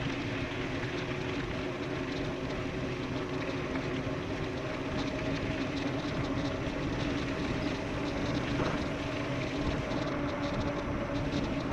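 Electric mountain bike rolling fast downhill: a steady hum from the tyres and drive, with wind rushing past.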